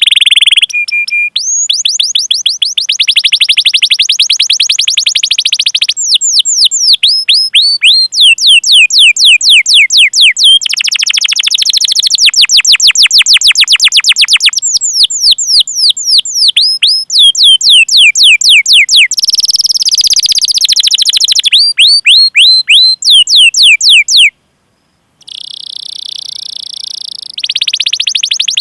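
Domestic canary singing loud, fast rolling trills: long runs of rapid, repeated high chirps sweeping downward, the song changing phrase every few seconds, with a short break about 24 seconds in.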